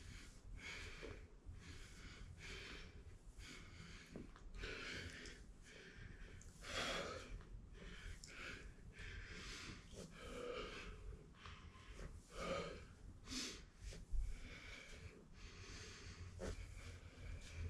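A man breathing hard and rhythmically through a set of Bulgarian split squats, with quick airy breaths in and out every half-second to second.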